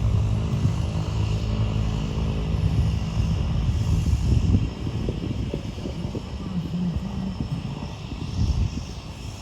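Propeller-driven single-engine piston light aircraft running with a steady engine drone, loud at first, then dropping away about four and a half seconds in.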